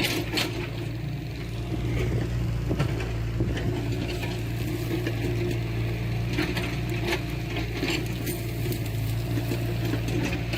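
Diesel engine of heavy earthmoving machinery running steadily, with scattered metallic clicks and clanks.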